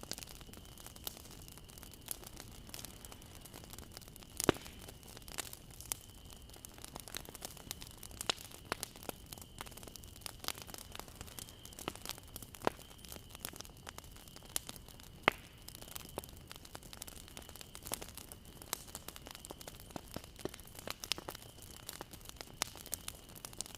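Bonfire burning: wood crackling and popping at irregular intervals over a low hiss, with sharper pops about four and a half seconds in and a little past halfway.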